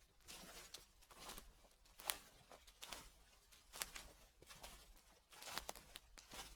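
Footsteps on fallen leaves, a crackling rustle with each step at a slow walking pace, about one step a second.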